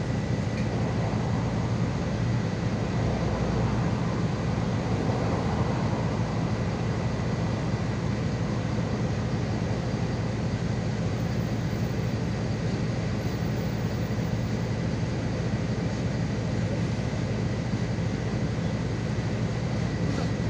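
City bus under way, heard from inside the cabin: a steady engine and drivetrain drone mixed with road noise, with a thin, constant high whine above it.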